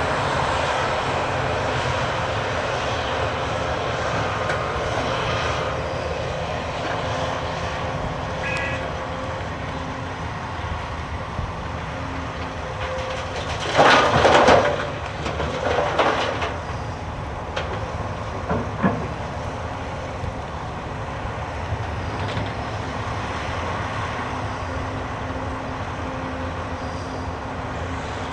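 Heavy diesel machinery running steadily as a Cat 390F excavator loads a Cat 773G haul truck. About halfway through there is a loud, noisy crash, then a second one shortly after, which fits a bucketload of material dumped into the truck's bed.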